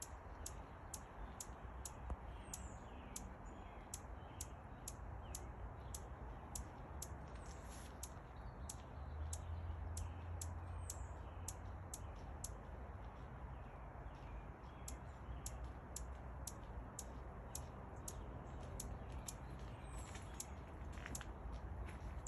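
Hummingbird giving a steady series of thin, high chip notes, about two a second, with a few short squeaky slurred notes mixed in. A low rumble runs underneath.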